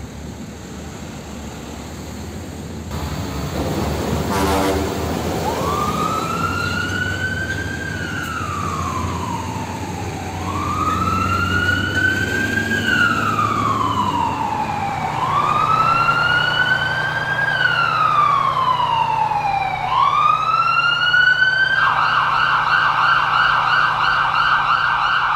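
Police car siren wailing, rising and falling slowly about every four to five seconds, then switching to a rapid yelp near the end, over a low vehicle engine hum.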